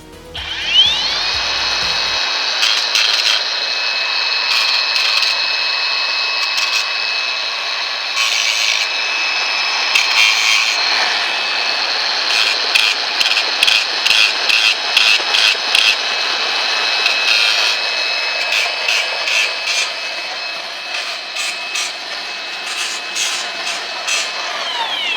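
Power grinder spinning up and grinding metal on an engine water pump to make it fit, with a steady high whine and repeated rasping as the wheel bites, then winding down near the end.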